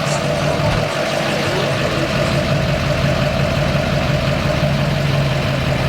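Truck engine idling with a steady drone.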